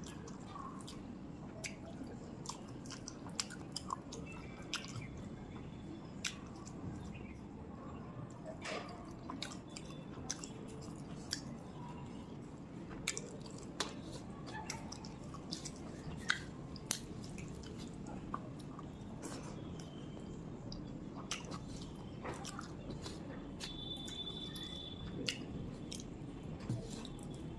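Close-up chewing and wet mouth sounds of someone eating a meal of rice and curry, with many small, irregularly spaced clicks and smacks over a steady low background hum.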